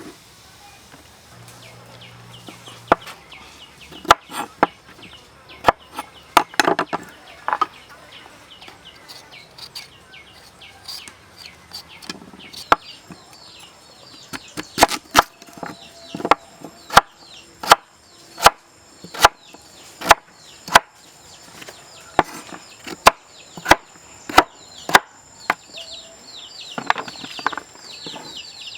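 Knife or cleaver chopping on a wooden board: sharp strokes, scattered at first, then a steady run of about two strokes a second midway through. Chickens call and cluck throughout with short, high, falling calls.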